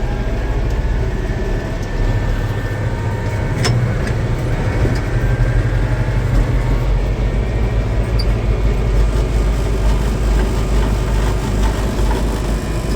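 Tractor engine running steadily under way on the road, a deep even drone, with a single sharp click about three and a half seconds in.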